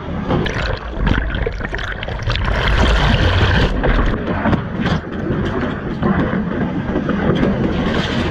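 Rushing water and wind buffeting a GoPro's microphone, a loud continuous roar with a heavy low rumble that peaks around the middle.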